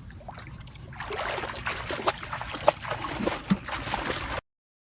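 Water splashing and sloshing with irregular small knocks, growing busier about a second in and cutting off suddenly near the end.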